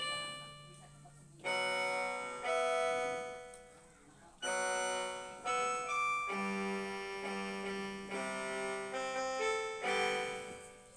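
Angelet XTS 690 portable electronic keyboard playing its string voice, violin tone 040, as a few phrases of held notes and chords, each starting firmly and fading away.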